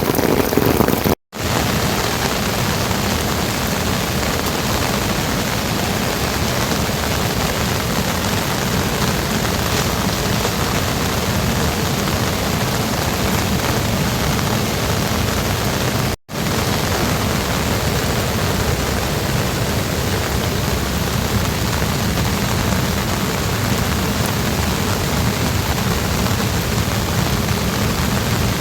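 Rain falling steadily, a dense even hiss. The sound drops out for an instant twice, about a second in and again about halfway through.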